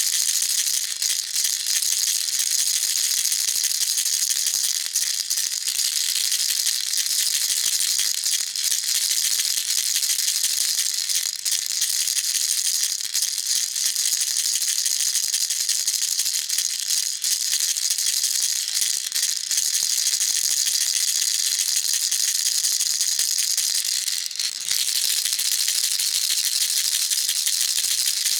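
Baby rattle shaken steadily and quickly, a continuous dense high-pitched rattling of small beads inside, with a few momentary dips.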